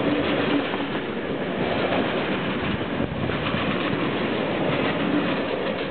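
Empty stake-sided flat wagons of a freight train rolling past, a steady noise of steel wheels running on the rails.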